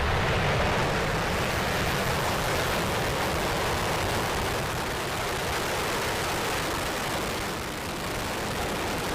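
Falcon 9 first stage's nine Merlin 1D engines at full thrust just after liftoff: a loud, steady, deep rushing rumble with no pauses.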